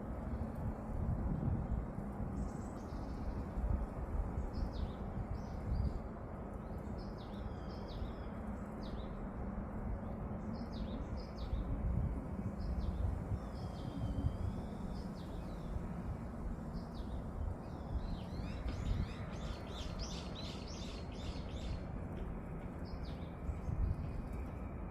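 Wild songbirds calling and singing: scattered short chirps and whistled notes, then a fast run of rapid notes for a few seconds near the end. A steady low rumble of background noise runs beneath the birdsong.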